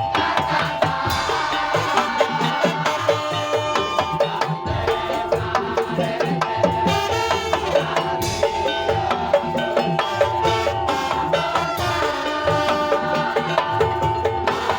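Madurese daul (tong-tong) music: a percussion ensemble playing a fast, dense rhythm over a steady held tone.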